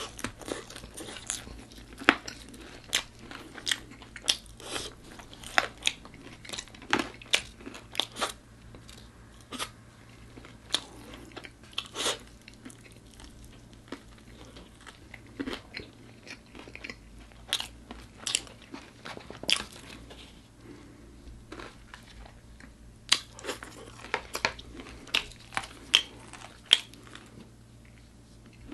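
Close-miked biting and crunching of crispy fried food, with clusters of sharp crackling crunches and a few quieter pauses of chewing.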